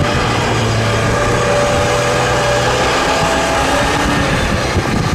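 Engine of a rear-wheel-drive GAZ Volga 31105 sedan running hard under load as the car pushes through deep snow, with a shift in pitch about three seconds in.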